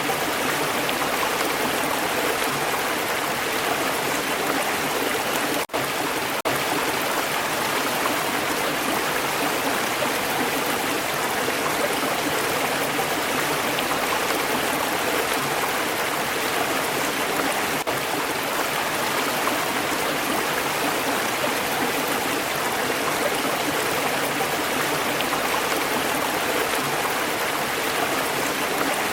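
Stream water flowing and babbling in a steady, even rush, with a momentary dropout about six seconds in.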